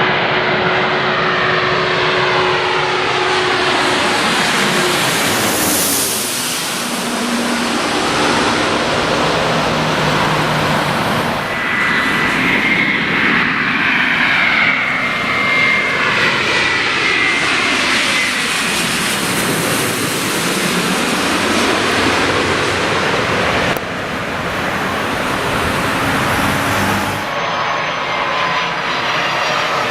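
Jet airliner engines passing low overhead, twice, each pass marked by a sweeping rise and fall in pitch. A high whine is heard during the second approach, and the sound changes abruptly near the end.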